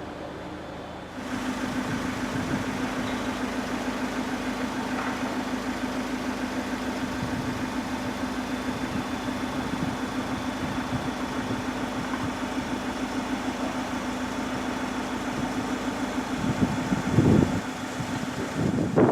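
Iveco Daily 4x4 diesel engine idling steadily, coming in about a second in, with two brief louder swells near the end.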